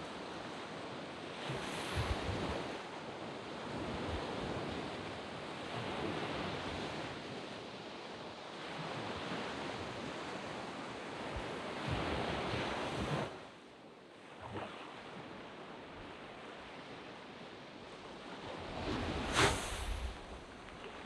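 Waves breaking and washing up a sandy beach, the surf hiss swelling and easing every few seconds. The wash drops away to a quieter lull past the middle. A louder, sharper wave surge comes near the end.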